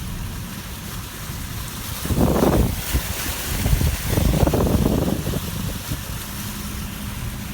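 Wind buffeting the microphone over a steady low rumble, swelling in two strong gusts near the middle.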